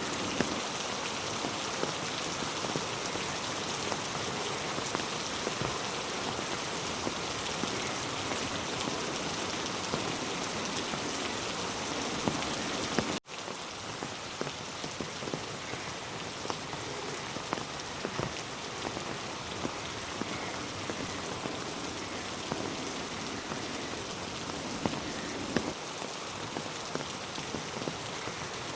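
Steady rain falling, with many sharp drop ticks scattered through it. Just under halfway through it cuts out for an instant and comes back slightly quieter.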